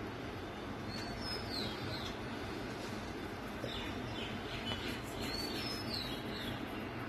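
Steady background hiss with short high bird chirps in two groups, about a second in and again around five to six seconds in.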